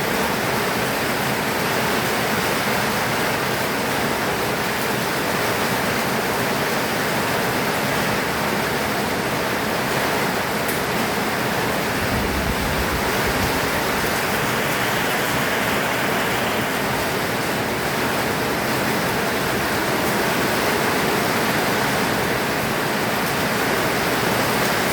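Heavy rain pouring down steadily, a dense even hiss, with a brief low rumble about twelve seconds in.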